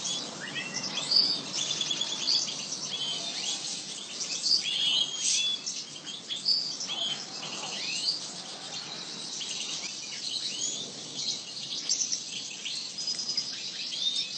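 A flock of small cage finches chirping and twittering together, with many short, high calls overlapping without a break.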